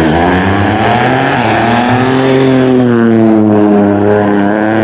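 Rally car engine at high revs as the car drives through the stage, its pitch climbing, dropping back about two seconds in, then climbing again near the end.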